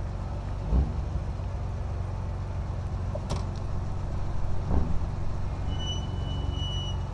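1967 Triumph Vitesse 2 Litre's straight-six engine running steadily on the move, heard from the driver's seat, with a couple of dull knocks and a thin high tone near the end.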